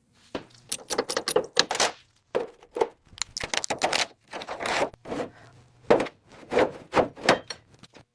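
Irregular thunks, clanks and short scrapes, like tools and car parts being handled during a teardown.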